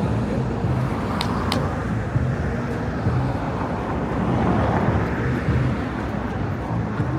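City street traffic: a steady rumble of passing cars that swells about four seconds in, with two short sharp clicks just over a second in.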